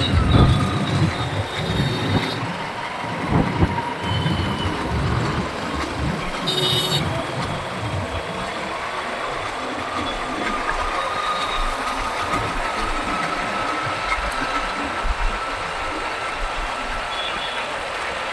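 City road and traffic noise heard from a moving motorcycle, with wind buffeting the microphone and a brief high-pitched sound about seven seconds in.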